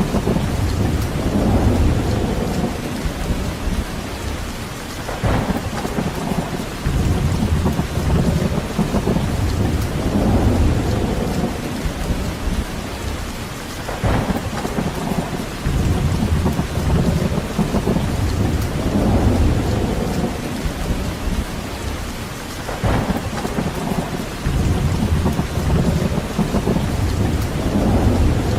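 Rain falling steadily, with deep rumbling surges that swell and fade every few seconds, like wind gusts or distant thunder. A short sharper sound recurs about every nine seconds.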